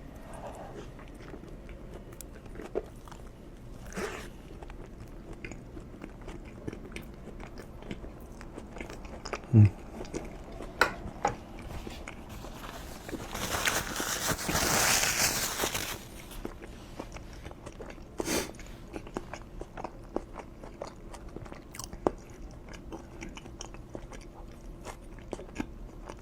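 Close-miked eating: a person biting and chewing food, with small wet mouth clicks throughout. There is a brief low hum about ten seconds in and a louder hissy noise lasting about three seconds midway.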